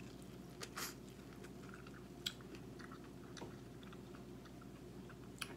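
Biting into and chewing corn on the cob: faint, irregular crunches and wet mouth clicks, a couple of them louder about one and two seconds in.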